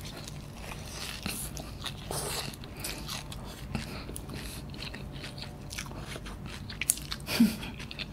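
Close-up mouth sounds of biting into and chewing a cheese kunafa: the crisp shredded kataifi pastry crunches in many small clicks. Near the end there is one short, louder voiced sound that falls in pitch.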